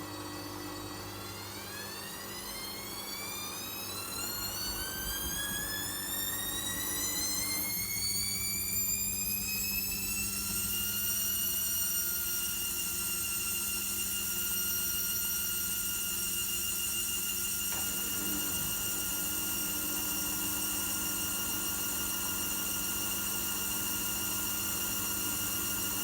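Logik L712WM23 washing machine speeding up into a spin: the motor's whine rises steadily in pitch for about ten seconds, then holds at a steady high whine. A lower hum underneath drops out partway through and comes back later.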